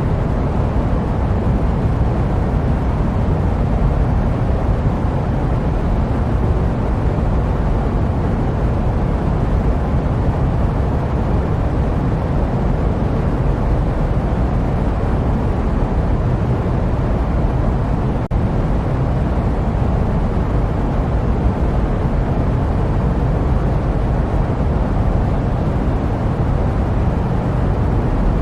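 Steady jet airplane noise used as white noise: an even, low rumble with no changes, apart from a very brief dip in level about two-thirds of the way through.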